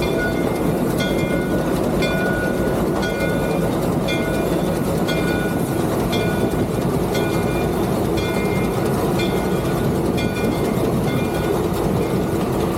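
Three-truck Shay geared steam locomotive running, heard from its cab: a steady rumble and clatter, with a short high ringing tone that comes back about once a second.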